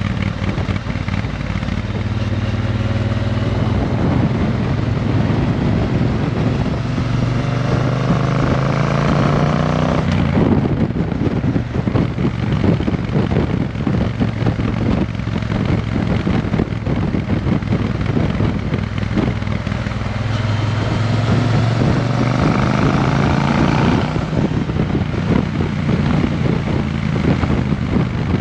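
Triumph Bonneville T120's parallel-twin engine running through an aftermarket Vance and Hines exhaust. The engine note rises twice, about a third of the way in and again past two-thirds, and drops back after each rise.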